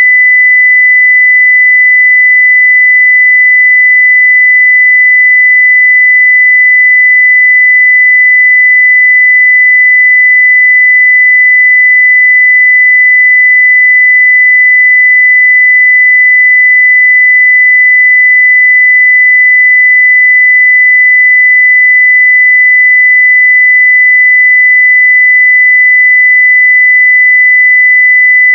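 A steady 2 kHz sine-wave test tone at full scale (0 dB), one pure unchanging pitch.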